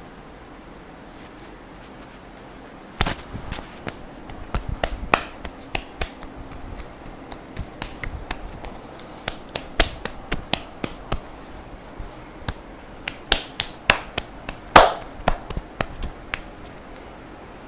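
Hands striking a person's back and shoulders in a percussive massage: after a few quiet seconds, a fast, irregular run of sharp slaps and chops, the loudest one near the end.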